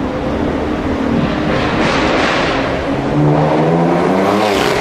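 A sports car's engine accelerating hard through a road tunnel, its pitch climbing for about a second and a half before falling away sharply near the end at an upshift.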